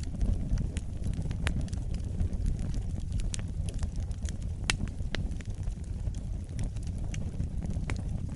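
Wood fire burning, with a low steady rumble of the flames and irregular sharp crackles and pops of burning logs.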